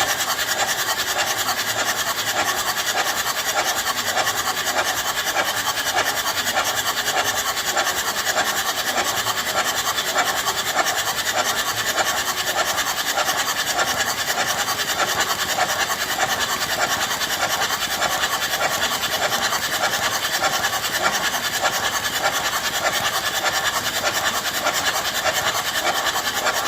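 Volvo EC210B excavator's diesel engine running steadily on its repaired injectors, with a fast, even clatter.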